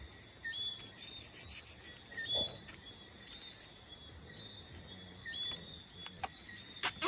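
Night insects such as crickets chirring steadily, with short rising chirps repeating about once a second and a few faint knocks.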